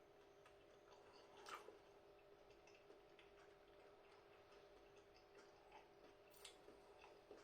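Near silence: faint room tone with a steady low hum and a few faint clicks, the clearest about one and a half seconds in and near the end.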